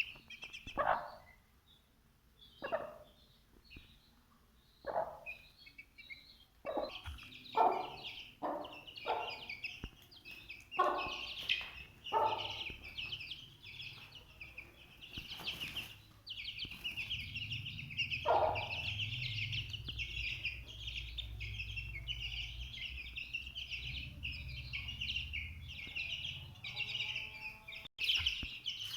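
A flock of small birds chirping continuously, with short calls from chickens breaking in now and then, several in quick succession around 7 to 12 seconds in. A low rumble runs under the second half.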